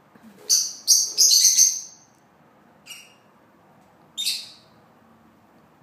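Young birds chirping shrilly: a quick run of loud high calls in the first two seconds, then two single chirps about a second apart.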